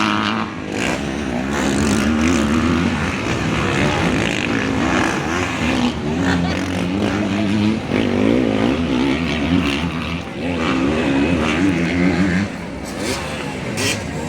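Motocross bike engines running hard, the pitch rising and falling repeatedly as the riders throttle on and off around the track.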